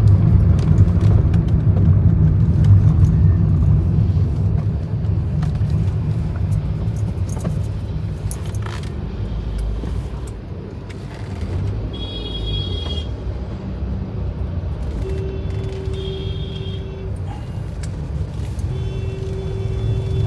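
Steady engine and road rumble of a car on the highway, heard from inside it. In the second half come several held tones, each one to two seconds long.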